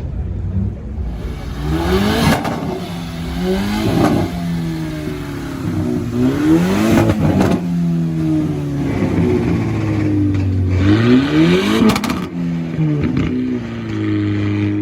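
A car engine being revved hard about five times, its pitch climbing and dropping back with each blip between spells of steady idle.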